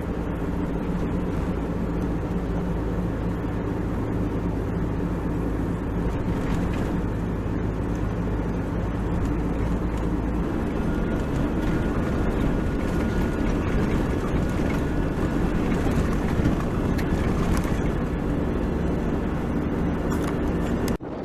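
Four-wheel-drive vehicle's engine running steadily while driving along a sand track.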